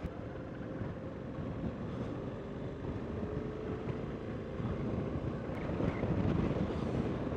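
Motorcycle riding at road speed: a low engine rumble under wind noise on the microphone, with a faint engine tone that slides slowly down in pitch over the first few seconds.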